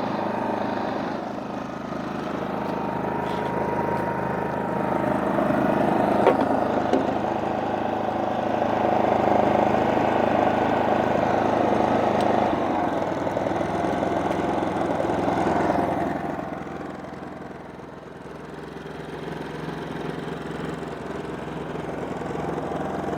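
Generac GP3300i inverter generator's small single-cylinder engine running steadily just after its first start-up. Its loudness drops for a couple of seconds about two-thirds of the way in, then comes back up.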